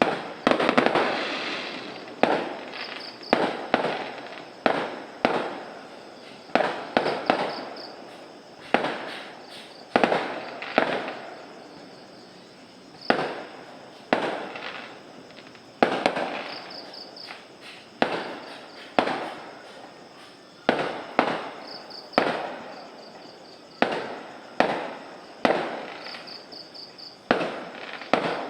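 Fireworks going off in an irregular series of sharp bangs, roughly one every second or so, each trailing off in an echo.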